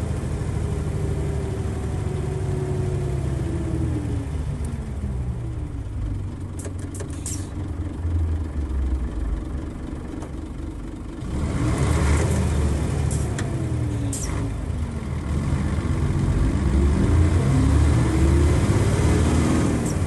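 Nissan Diesel FE92TA turbocharged diesel bus engine under way: the revs run down over the first few seconds and hold low, then about eleven seconds in the engine comes back on load, louder, with the revs dipping and climbing again toward the end. A few brief sharp high sounds cut in around seven and fourteen seconds.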